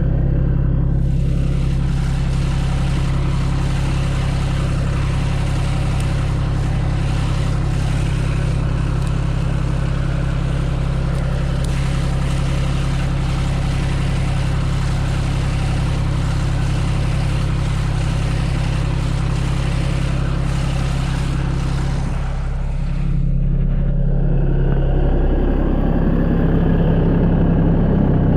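Tractor engine running steadily under load. Near the end the engine note changes, dipping and then climbing.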